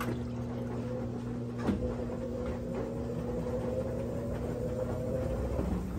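Brastemp 17 kg washing machine's motor turning the drum in its initial load-weighing spin: a steady hum with a whine that rises slowly in pitch, stopping shortly before the end, and a single knock near two seconds in.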